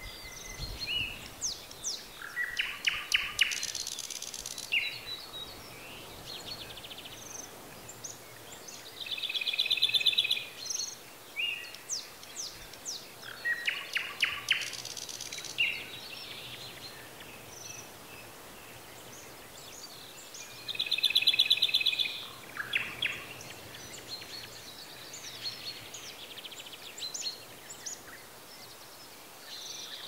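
Songbirds singing outdoors: a phrase of rapid ticking notes ending in a high buzzy jingle repeats about every ten seconds, alternating with a loud, dense trill that comes twice, plus scattered short chirps from other birds over a faint steady background hiss.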